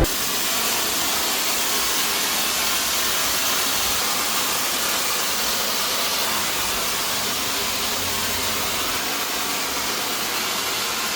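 A steady, even hiss with no rhythm or pitch, strongest in the upper range, from a workshop tool such as an air or spray tool.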